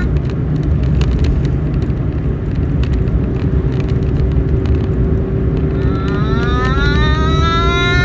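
A constant low rumble, like passing traffic, runs throughout under a faint steady low hum. About six seconds in, a calming sustained tone with rich overtones slides upward in pitch and then holds steady.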